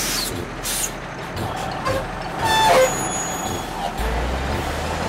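Cartoon truck sound effects: a truck engine running with hissing, a short falling tone about two and a half seconds in, and a deeper low rumble starting near the end.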